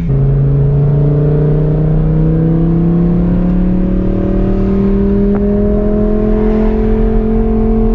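Straight-piped Audi R8's 5.2-litre V10 heard from inside the cabin, its exhaust drone climbing slowly and steadily in pitch as the car accelerates gently in gear.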